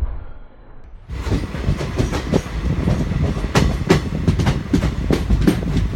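Train running along the track, its wheels clattering over the rails with many irregular clicks and knocks. The sound sets in suddenly about a second in.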